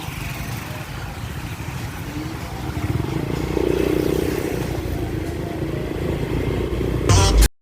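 Motorcycle running on the road with wind noise, the engine note rising in level about three seconds in. Near the end a loud short noise cuts off suddenly into silence.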